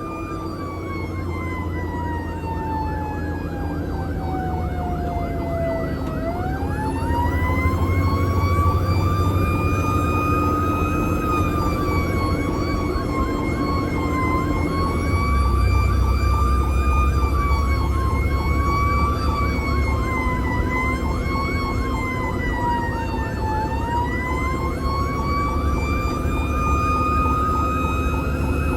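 Emergency vehicle siren wailing. Its pitch slides slowly down for the first six seconds or so, then climbs back and wavers up and down, with another dip and rise near the end, over a steady low rumble.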